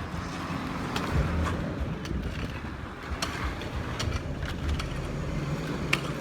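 A motor vehicle's engine running steadily, with scattered sharp clicks over it.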